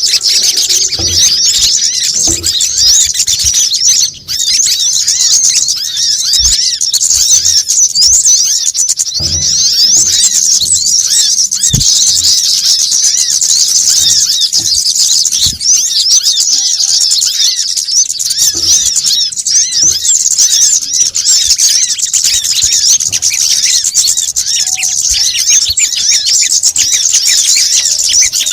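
Dense, nonstop high-pitched chattering of many small birds, rapid overlapping chirps. This is a noisy bird-lure recording of kemade, sogon and brown-throated sunbird (kolibri kelapa) calls.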